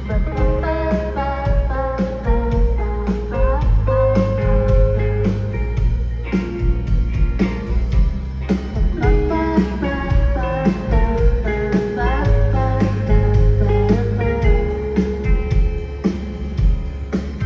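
Live indie rock band playing, with guitar over a steady beat and a heavy bass line.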